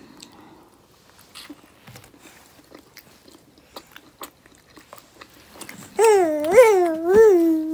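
Soft clicks and smacks of chewing and biting food while eating momos. About six seconds in, a young child's loud vocalizing begins, its pitch wavering up and down in drawn-out whining sounds.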